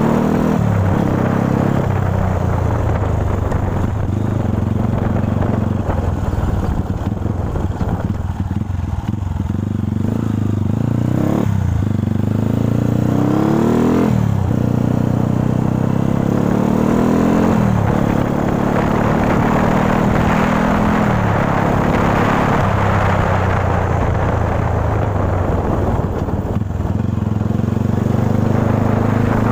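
Dirt bike engine running while being ridden, the rider revving up and easing off. Several times, mostly around the middle, the engine note climbs steeply and then falls away.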